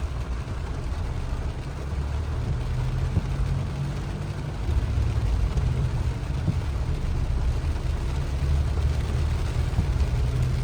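A vehicle on the move: a steady low road and engine rumble with a hiss of noise above it.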